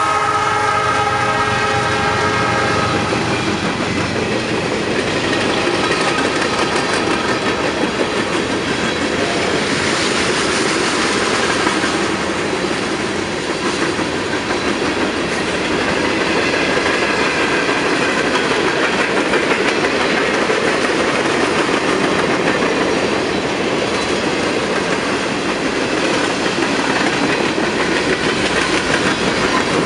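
Norfolk Southern freight train passing close by. The locomotive horn is sounding at the start and stops about three seconds in. After that comes the steady rumble and clatter of freight cars rolling past on the rails.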